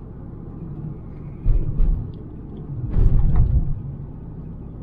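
Low outdoor rumble that swells twice, about a second and a half in and again around three seconds in.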